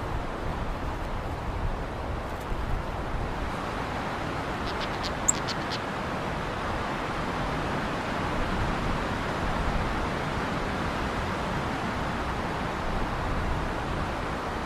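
Steady rushing noise with a brief run of quick, high clicks about five seconds in.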